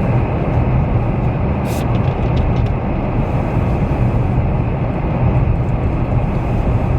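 Steady low rumble of a car driving, heard inside the cabin: engine and tyre noise on a snowy county road. There is one short tick about a second and a half in.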